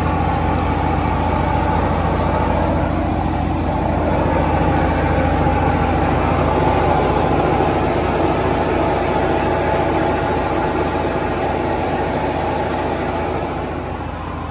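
Heavy farm diesel engine running steadily with a deep hum, getting a little louder midway and easing off near the end.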